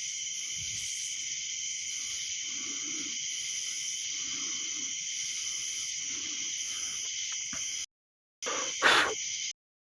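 Steady high-pitched chorus of night insects, with about four soft low hoots spaced roughly a second and a half apart. Near the end the sound cuts out, broken by one short louder noise.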